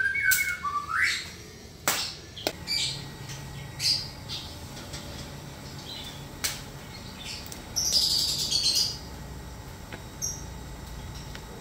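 Birds chirping and squawking, with rising chirps in the first second and a louder squawk about eight seconds in. A couple of sharp snaps and some rustling come from spinach stems being broken off and the leaves handled.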